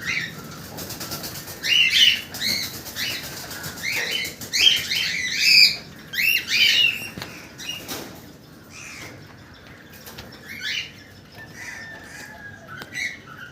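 Small birds chirping, a run of short rising-and-falling calls that come thickest in the first half and thin out later.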